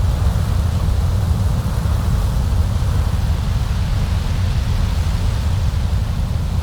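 Storm wind blowing steadily in a continuous, slightly gusting deep rumble, with a fainter hiss above it.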